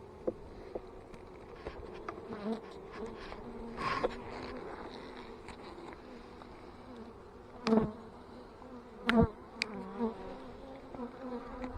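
Honeybees buzzing around an opened hive, a steady hum throughout, with several knocks and handling noises, the loudest two in the second half about a second apart.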